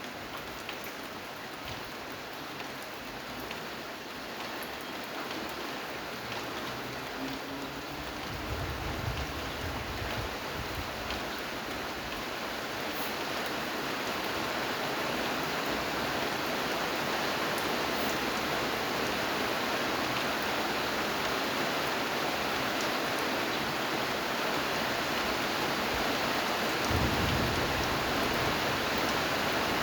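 Steady rain falling, with a few separate drops ticking early on, growing gradually louder and denser. Two brief low rumbles come through, about a third of the way in and near the end.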